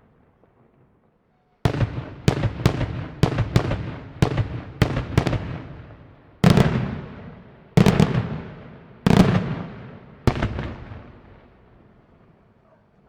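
Fireworks display: a quick run of about eight sharp bangs, roughly two a second, then four heavier single blasts a little over a second apart. Each is followed by a long, echoing rumble, and the last one fades away near the end.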